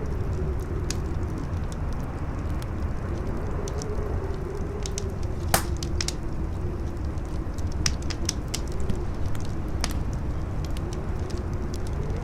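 Campfire crackling with frequent sharp pops, one louder pop about five and a half seconds in, over strong howling wind whose moaning pitch sinks slowly and climbs again near the end.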